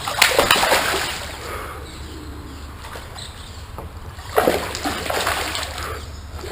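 Water splashing close by in two bouts, one at the start and one about four and a half seconds in, over a steady low wash.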